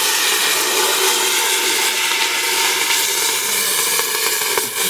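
Fire extinguisher discharging with a loud, steady hiss.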